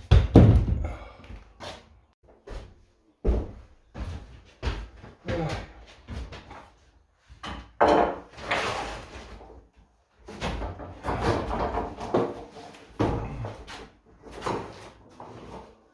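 Irregular strokes of hand work on stone walls: rough scraping and knocking, one after another with short pauses, a few of them louder and longer.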